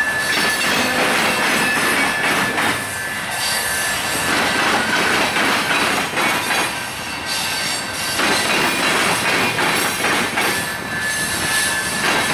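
Freight train cars rolling past on steel rails, with a thin, high steel-wheel squeal just at the start and again near the end.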